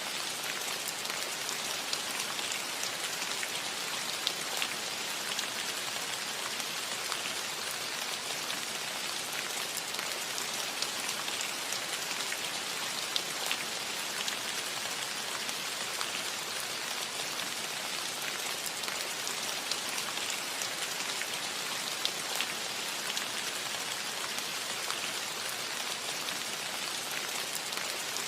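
Steady gentle rain on a metal roof: an even hiss of rainfall with many fine drop ticks scattered through it.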